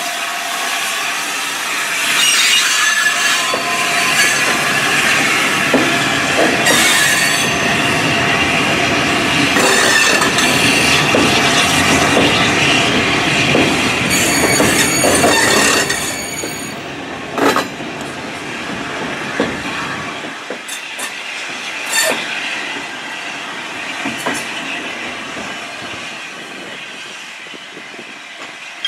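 Railway coaches and a brake van rolling slowly past behind a steam locomotive: steel wheels squealing on the rails, with clicks as they cross rail joints. The sound fades gradually after about sixteen seconds as the train draws away.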